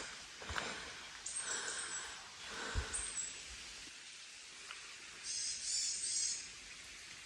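Birds calling in short bursts of high, warbling chirps, three times, over a faint steady hiss, with a couple of soft thuds in the first three seconds.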